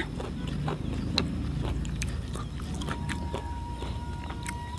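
Close-up crunchy chewing of young coconut (cengkir) husk, with scattered short crunching clicks over a low steady rumble.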